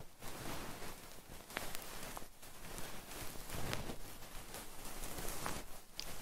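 Close-microphone ASMR trigger sounds: soft, continuous rustling against the microphone with a few sharp little clicks scattered through it.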